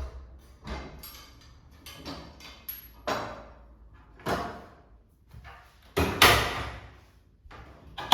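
Irregular knocks and bangs of a door and other household things being handled, about nine in all; the loudest are a pair of bangs about six seconds in and another near the end.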